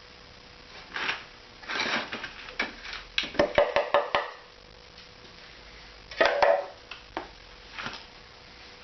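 Irregular knocks, taps and crumbling as a cast aluminium muffler casting is broken out of its sand mould: a quick run of rapid knocks about three seconds in, another cluster around six seconds, and scattered single knocks.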